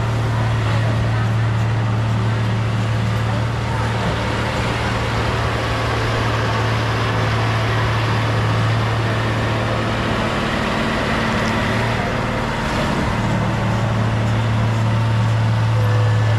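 Bulldozer's diesel engine running at a steady speed, a constant low hum that dips briefly about twelve seconds in.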